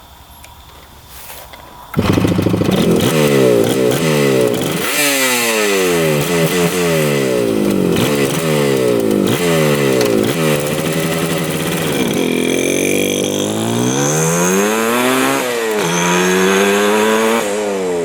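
1975 Yamaha RD200's two-stroke twin engine running hard, its pitch climbing and falling again and again as it revs up and eases off. It comes in suddenly, loud, about two seconds in.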